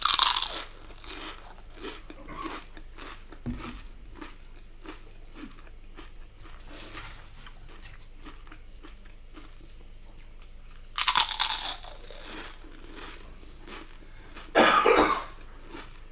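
Close-miked eating of crispy fried Chinese takeaway food: loud crunching bites right at the start, again around 11 seconds and near 15 seconds, with quieter chewing clicks in between.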